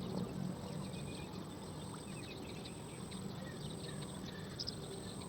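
Small birds chirping in short, scattered high notes over a steady high-pitched drone and a low background rumble.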